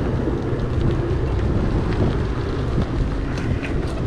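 Wind rushing and buffeting over a chest-mounted action camera's microphone on a moving bicycle: a steady, heavy low rumble with a few faint clicks.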